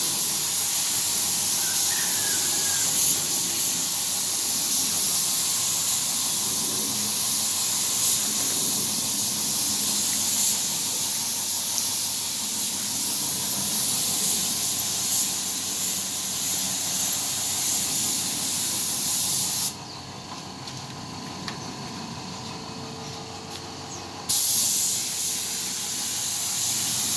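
Compressed-air paint spray gun hissing steadily as it lays clear coat on a car body. About 20 seconds in the hiss stops for some four seconds as the trigger is released, then starts again.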